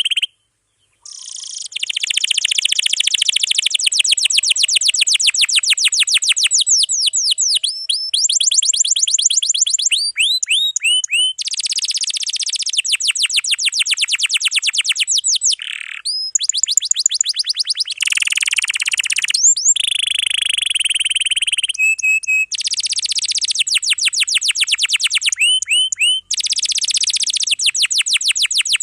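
Domestic canary singing a long, unbroken song of rapid trills and rolls, switching to a new repeated phrase every few seconds, with a brief break about a second in.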